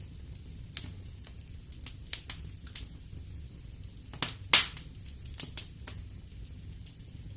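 Wood fire crackling in a fireplace: irregular sharp pops and snaps over a low steady rumble, the loudest pop about four and a half seconds in.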